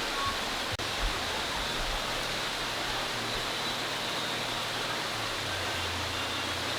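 Steady rush of flowing water, which cuts out for an instant a little under a second in.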